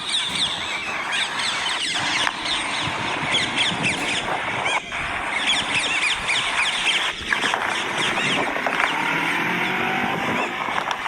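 A large flock of green parrots screeching and chattering together, many short shrill calls overlapping into a continuous chorus.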